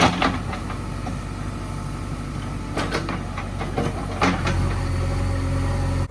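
JCB 3DX backhoe loader's diesel engine running steadily, with a few sharp metallic clanks from the working machine near the start, about three seconds in and again a little over four seconds in.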